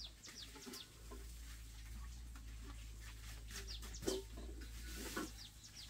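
Birds chirping: short, high chirps that fall in pitch, several in quick runs, over a low steady rumble.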